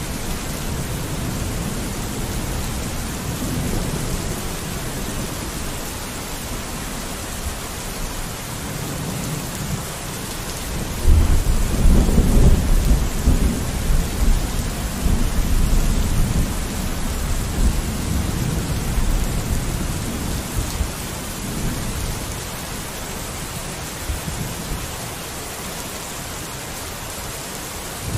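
Steady rain falling on a window, with a roll of thunder that breaks in suddenly about eleven seconds in, is loudest for a few seconds, then rumbles on and slowly fades.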